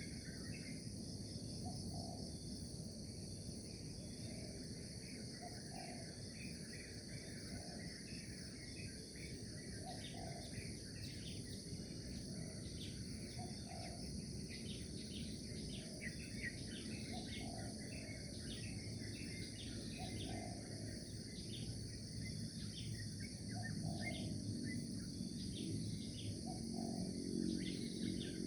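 Morning nature ambience: a steady high insect chorus with many short bird chirps over it, a soft low call repeating every couple of seconds, and a low rumble underneath. Near the end a low droning sound grows louder.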